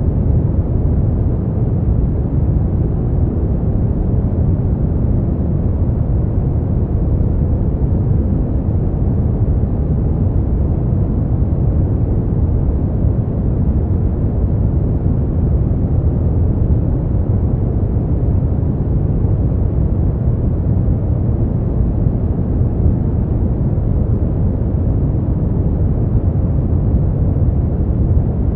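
Steady 'white noise' sleep track: a constant, deep, even hiss weighted heavily toward the bass, with nothing in the high range and no changes or separate sounds.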